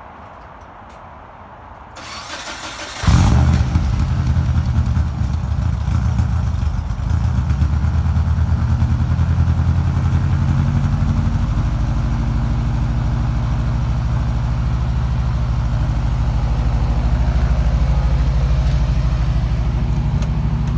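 1998 Subaru Forester's flat-four boxer engine, breathing through an unequal-length header and a straight pipe with no muffler, cranks and catches about three seconds in with a loud flare. It then settles into a loud idle that is uneven at first and steadies about halfway through.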